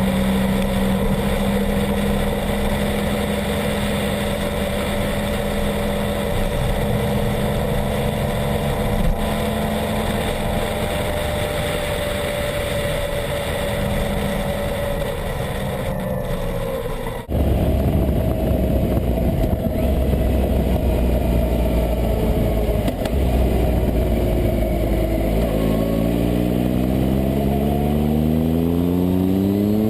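Triumph Explorer XCA's three-cylinder engine running through an Arrow exhaust at a steady pace. A little over halfway the sound changes abruptly to a deeper, fuller exhaust note, and near the end the engine pitch rises steadily as the bike accelerates.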